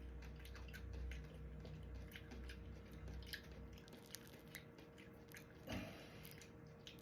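Faint wet squishing and small scattered clicks from finger limes being handled and eaten, with a slightly louder squish about six seconds in.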